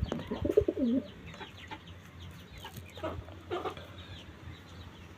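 Domestic pigeon cooing: low, warbling coos for about the first second. After that it is quieter, with faint high chirps and one short call about three and a half seconds in.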